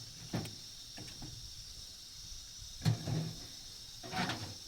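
Crickets chirring steadily in the background, with a few scattered knocks and thumps, the loudest about three seconds in.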